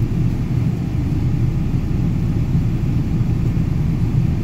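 Car driving along at steady speed: a continuous low rumble of engine and road noise.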